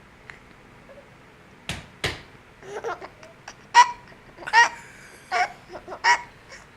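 Two sharp knocks about two seconds in, then a sleeping baby giggles in a run of short bursts.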